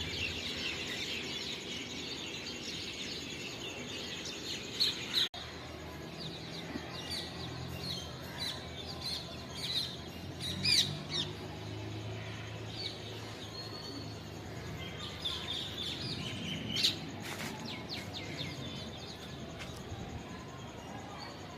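A chorus of small birds chirping and calling continuously, many short overlapping chirps and trills, with a few louder chirps standing out now and then. The sound drops out for an instant about five seconds in.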